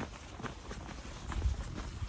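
Running footsteps in fresh snow, short steps a few tenths of a second apart, with a low rumble about one and a half seconds in.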